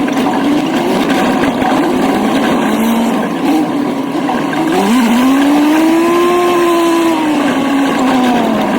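Old truck's engine running while driving, its pitch dipping, then rising sharply about five seconds in as it revs, holding, and falling off again near the end.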